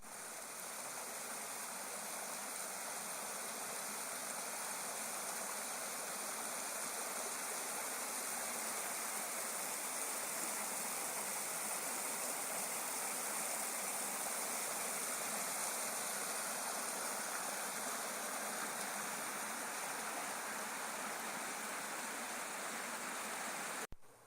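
Small burn rushing steadily over little rapid-like falls into pools. The sound cuts off suddenly just before the end.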